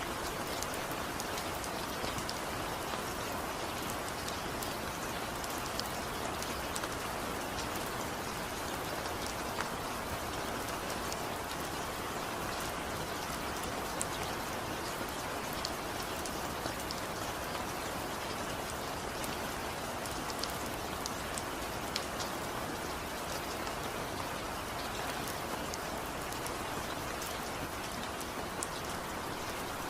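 Steady rainfall with individual drops ticking here and there, no thunder.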